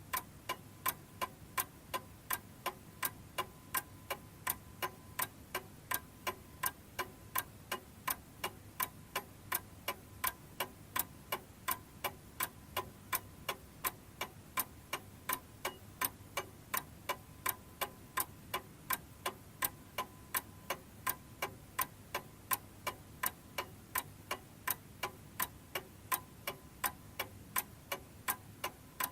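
Domestic chiming clock ticking at an even, quick pace of about two to three ticks a second; no chime sounds.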